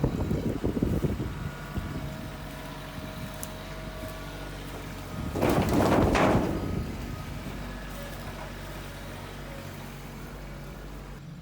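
A tractor engine running steadily. There is a noisy rush at the start, and a louder, harsher burst of noise about five to seven seconds in.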